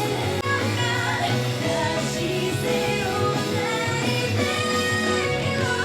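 Live K-pop concert music: a woman sings a strong, sustained melody with vibrato over a rock-style backing with guitar.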